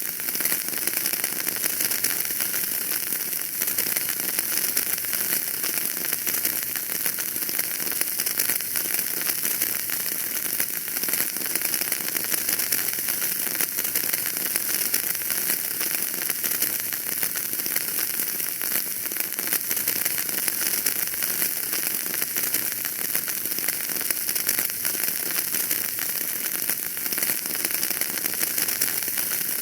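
Wood fire burning in a fireplace, with a steady dense crackling and hiss made up of many small pops.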